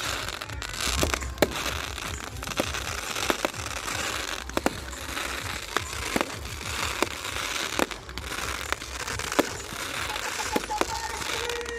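Fireworks popping and cracking: about a dozen sharp, irregular reports, roughly one a second, over a steady background din.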